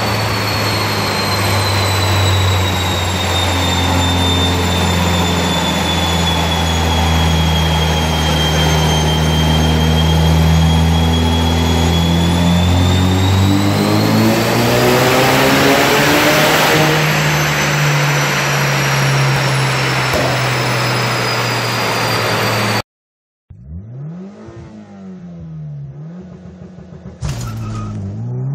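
Turbocharged four-cylinder engine of a 430 bhp Mitsubishi Lancer Evo IX running on a chassis dyno. A steady engine note with a high whine over it climbs about halfway through and then settles. After a brief cut, the engine is heard from inside the car during a 0-100 run, its note repeatedly rising and dropping through the gear changes.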